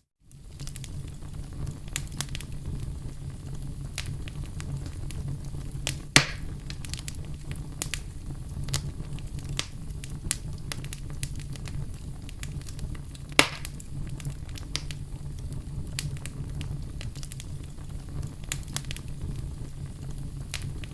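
Wood fire burning in a fireplace: a steady low rumble with frequent small crackles, and two loud sharp pops, one about six seconds in and one about thirteen seconds in.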